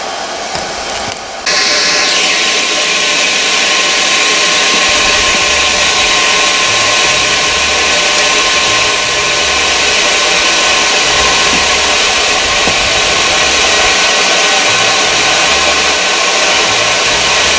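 An electric power tool starts abruptly about a second and a half in and runs loudly and steadily, with a hiss and a mix of steady tones.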